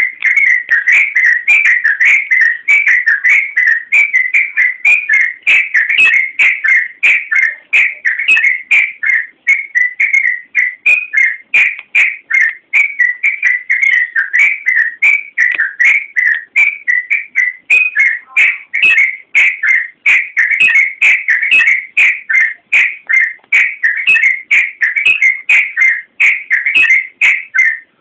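Yellow-vented bulbul (trucukan) singing loudly and without a break: a fast, continuous chatter of short whistled notes.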